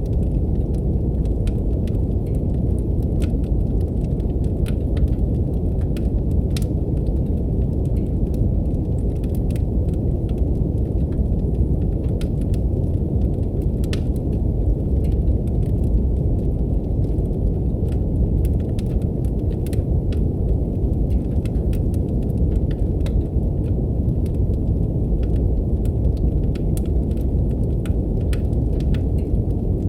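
Steady brown noise, a deep even rumble, overlaid with a wood fire crackling in a fireplace: frequent small irregular pops and snaps.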